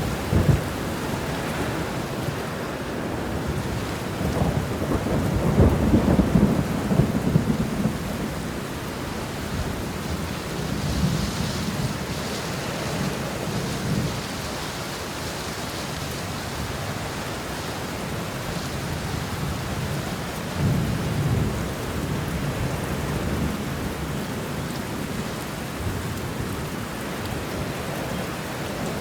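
Steady rain falling, with rolling thunder rumbling under it. The thunder swells loudest about five to seven seconds in, and again around twenty-one seconds in.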